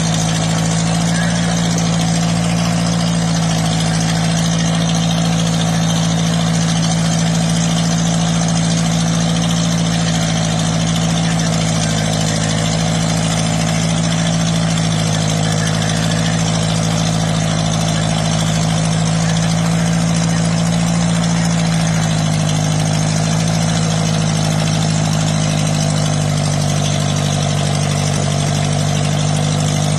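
1946 Ford 2N tractor's four-cylinder flathead engine running steadily under load while pulling. Its pitch sags slightly a little past two-thirds of the way through.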